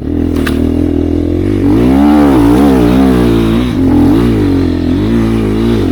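Enduro dirt bike engine being revved up and down several times, with a short click about half a second in.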